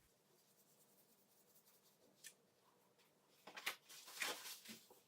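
Faint rubbing of a paper napkin wiping cleaning foam and dissolved soot off fireplace door glass, a few scratchy strokes in the second half, with a short tick about two seconds in.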